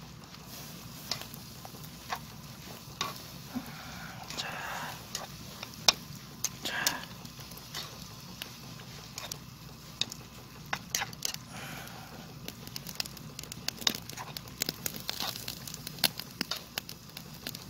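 Wood campfire crackling, with irregular sharp snaps and pops that come more often in the second half.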